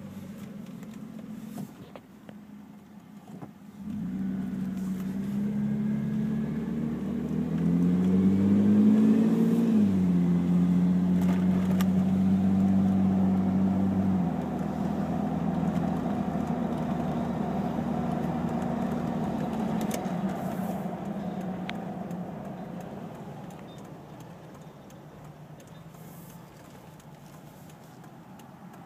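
1994 Toyota Land Cruiser FZJ80's 4.5-litre inline-six through a broken-in Magnaflow exhaust, heard from inside the cabin. The engine accelerates with its pitch climbing, drops at an upshift about ten seconds in, then cruises steadily before easing off and getting quieter near the end.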